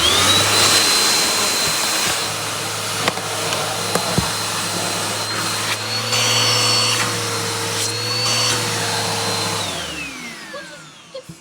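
Bissell PowerForce Bagged upright vacuum cleaner running for a suction test. The motor spins up with a rising whine and runs steadily, its pitch lifting slightly in the middle. Near the end it is switched off and winds down with a falling whine.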